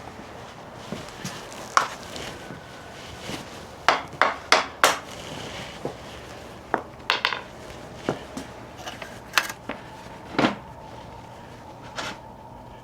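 Metal hand tools clinking and clanking as they are handled, in irregular sharp knocks, with a quick run of several about four to five seconds in.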